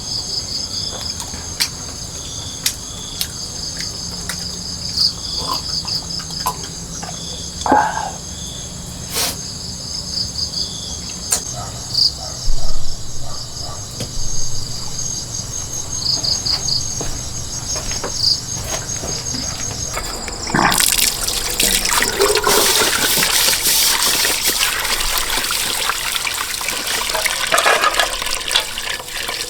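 Insects chirping steadily, with scattered clicks and knocks. About twenty seconds in, a loud rush of water starts and keeps going.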